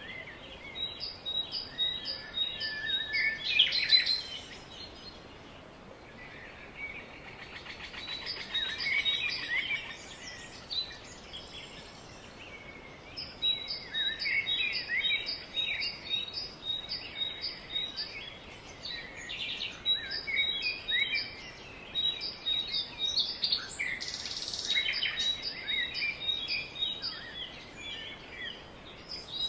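Several songbirds singing: one repeats a short, high, thin note over and over in long even runs, while others warble and chirp around it.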